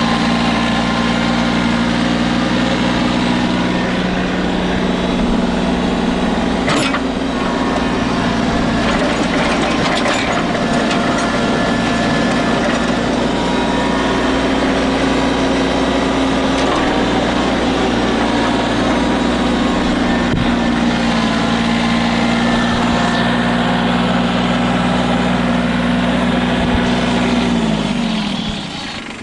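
Tractor engine running steadily at working speed, its pitch falling and its sound dropping near the end as it is throttled back to idle.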